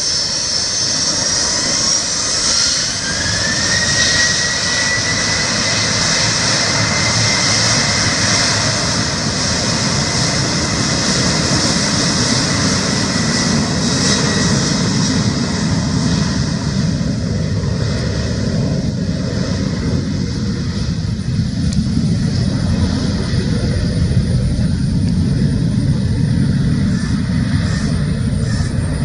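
Jet engines of an Air India Express Boeing 737-800 on its takeoff run. A whine rises in pitch over the first few seconds as the engines spool up, then holds steady over a broad roar. The low part of the roar grows stronger in the second half.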